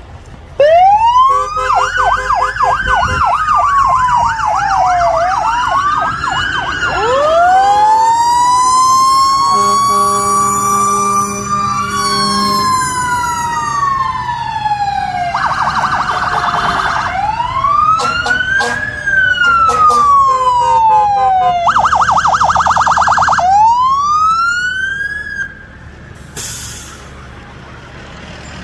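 Emergency vehicle sirens: wails rising and falling in pitch, overlapping, with two short stretches of rapid yelp. A steady low horn sounds for a few seconds in the middle. The sirens drop away about 25 seconds in.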